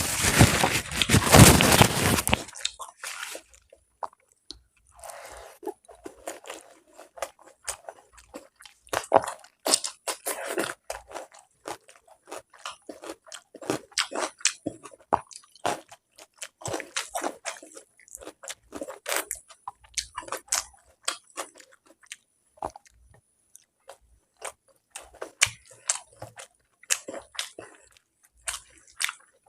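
Close-miked chewing and mouth sounds of a person eating polau, dum aloo and egg: irregular wet smacks and clicks. A loud burst of crunching in the first two seconds is the loudest part.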